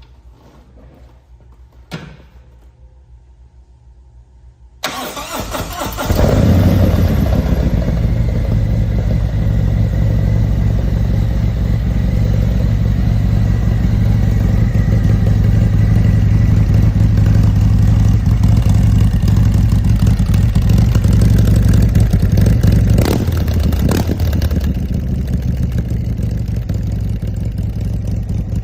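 2022 Harley-Davidson Street Glide's V-twin cold-started: a single click about two seconds in, then the starter cranks about five seconds in and the engine catches within a second. It then idles steadily and loudly, easing slightly near the end.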